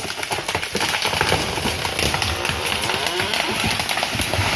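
A felled tree coming down, its branches and leaves crackling, snapping and rustling in a dense run of clicks and swishes after the chainsaw stops.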